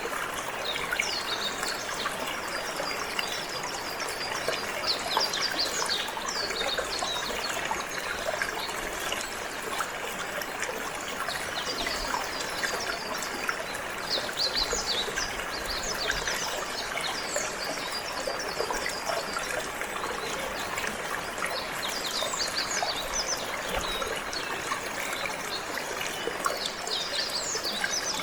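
Water trickling and flowing steadily, like a small stream, with several clusters of short, high chirps from singing canaries over it.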